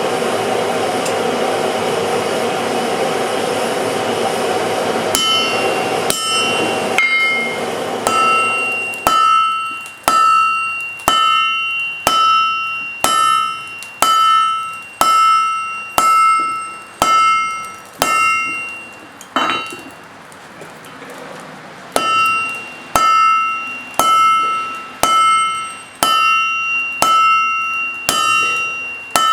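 Hammer blows on hot steel over an anvil, about one a second, each strike ringing with a clear metallic tone. A short pause comes about two-thirds of the way through. A steady rushing noise fills the first third, under the first few blows.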